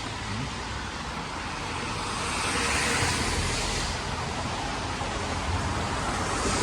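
Street traffic on a wet road: car tyres hissing past, the sound swelling as a vehicle goes by about three seconds in and again near the end.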